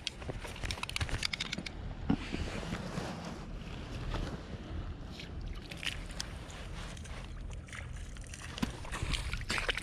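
Daiwa Luvias spinning reel being wound and handled, with scattered sharp clicks, while a cuttlefish is brought in. A steady low rumble of wind and water lies underneath.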